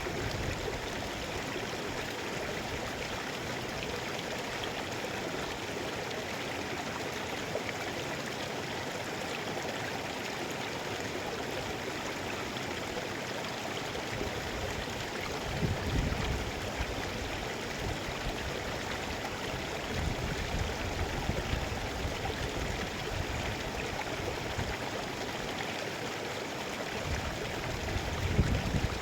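Mountain stream flowing steadily, with a few brief low rumbles about halfway through and again near the end.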